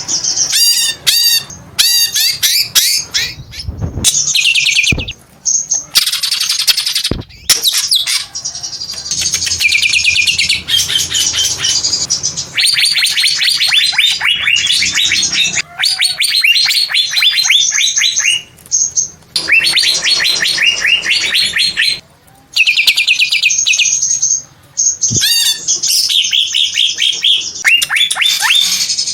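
Cucak ijo (green leafbird) singing loudly: long runs of rapid, sharp chattering notes strung into trills, broken by short pauses, with a few soft knocks in between.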